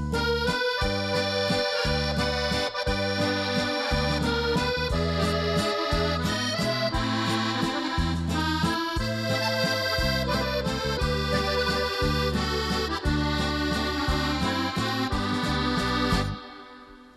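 Accordion music over a steady, regular bass-and-chord beat, fading out near the end.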